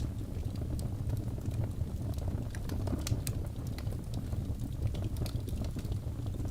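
Birch logs burning in a fireplace: a steady low rumble of the flames with frequent small sharp crackles and pops from the wood.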